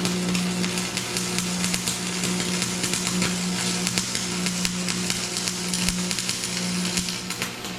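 Arc welding on steel: a continuous fine crackle and sizzle from the arc as a bead is laid, over a steady low hum.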